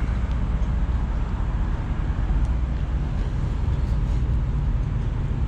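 Steady low rumble of vehicle and road noise, even throughout, with no distinct engine note.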